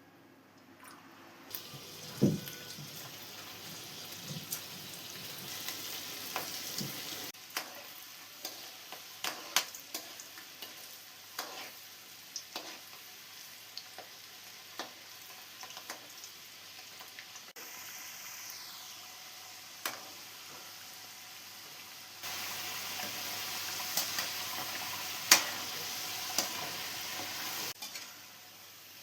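Batter-coated water chestnut fritters frying in hot oil: a steady sizzle with frequent sharp crackles and pops. The level jumps abruptly several times.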